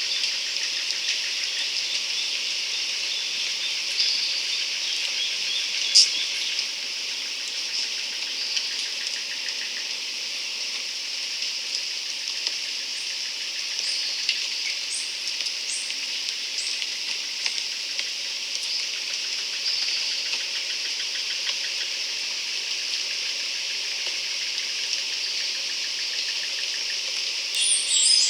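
Steady, dense chorus of insects like crickets, with a few short high bird chirps mixed in and a sharp click about six seconds in.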